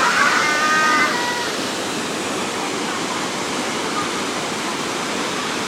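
Waterfall pouring steadily, a constant rushing wash of water. A person's voice is heard briefly in the first second or so.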